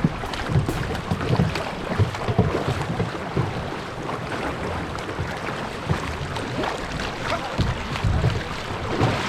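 Rushing river water splashing around a canoe, with wind buffeting the microphone in irregular low thumps.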